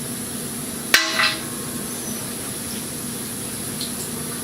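A sharp metallic clink about a second in, ringing briefly, then a softer second knock, over a steady low hum: a metal tool or part knocking against metal.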